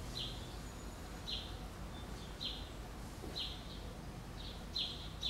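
A small bird chirping repeatedly: short, high, falling chirps about once a second, over a low steady hum.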